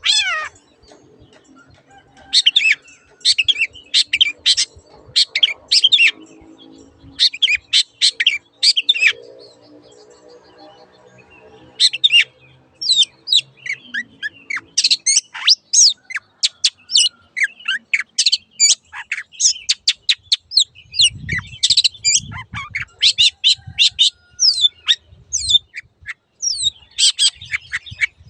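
Long-tailed shrike (cendet) singing: groups of short, harsh, rapid chattering notes with brief pauses between, becoming dense and almost unbroken after about twelve seconds.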